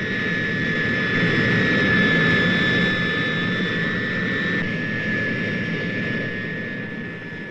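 Jet aircraft engines during a takeoff climb: a steady whine with high tones over a rumble. The upper tones drop out a little past halfway, and the engine sound fades toward the end.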